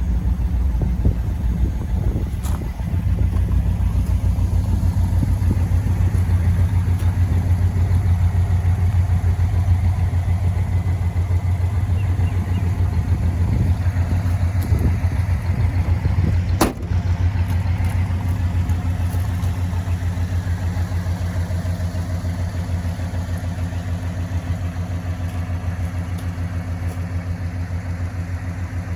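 1956 Ford Thunderbird's 312 Y-block V8 with a four-barrel carburettor running steadily at an even pitch. A sharp click comes a little past halfway.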